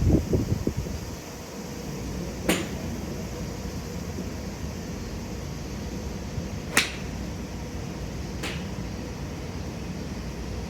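Golf clubs striking balls at a driving range: three sharp, short cracks, one a couple of seconds in and two more close together later, over steady range background noise. A brief low rumble sits at the very start.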